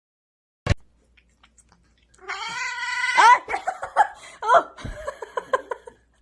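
A sharp click, then a cat yowling: one drawn-out yowl, followed by a run of short yowls and meows that rise and fall in pitch.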